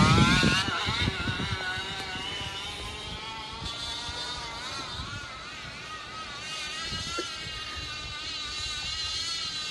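Crushed empty plastic water bottle on a bicycle's back wheel, rattling against the turning spokes to make a motorcycle-like buzz. Its pitch rises as the bike gets going, loudest in the first second, then wavers up and down with the wheel's speed.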